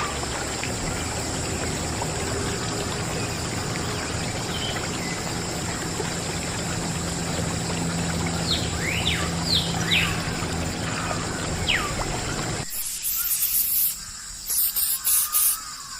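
Water trickling and pouring steadily, with a few short, falling chirps over it. It cuts off abruptly about thirteen seconds in, giving way to quieter, high-pitched rasping bursts.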